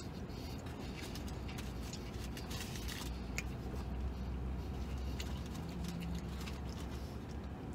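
Quiet chewing of a steak sub, with faint crinkling of its paper wrapper being handled and small scattered clicks, over a low steady hum.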